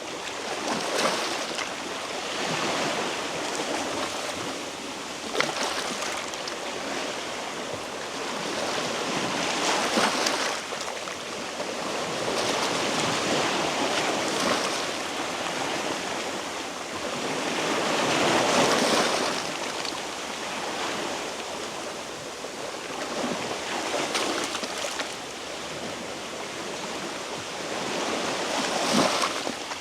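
Sea waves washing against shoreline rocks, the surf swelling and falling back every several seconds with a few short splashes.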